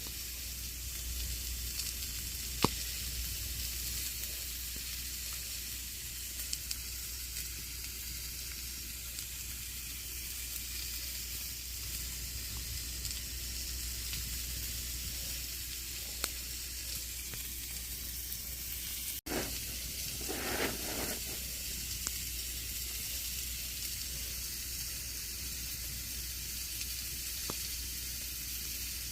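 Campfire burning with a steady hiss and scattered sharp crackles and pops, the loudest pop about two and a half seconds in. The sound drops out for an instant about two-thirds of the way through.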